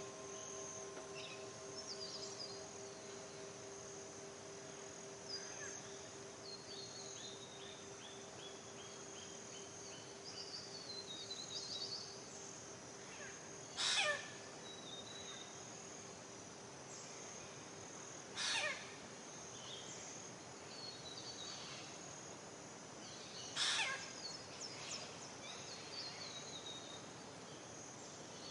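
Birds chirping and calling over a steady high insect drone, with a descending trill and three loud calls a few seconds apart that sweep down in pitch. Under them, the ringing tone of a singing bowl slowly fades out.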